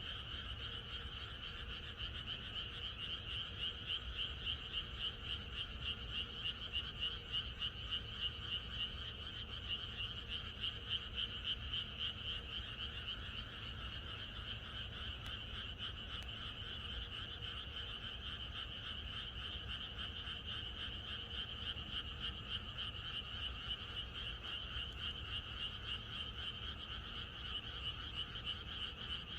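A dense chorus of many frogs croaking at once, a continuous rapid pulsing with no break, swelling slightly louder in the first half.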